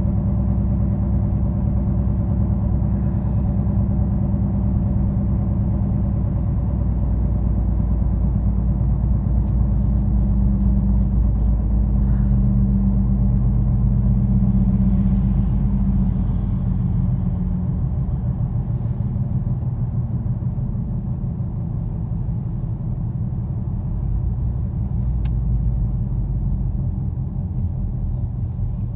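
Car engine and road noise heard from inside the cabin while driving, a steady low drone with engine tones that eases a little past the middle.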